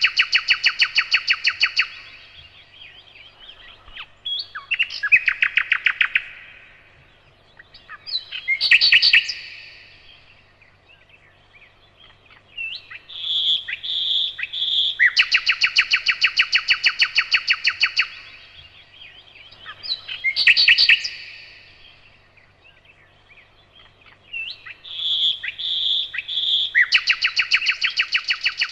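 Nightingale singing in phrases of a few seconds: runs of rapid repeated notes, some opening with a few separate whistled notes, with short pauses between phrases.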